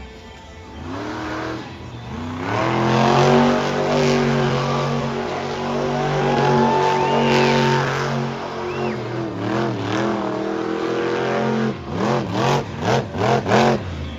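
Monster truck engine revving hard: its pitch climbs about two seconds in and holds high for several seconds, then near the end comes a run of quick throttle blips.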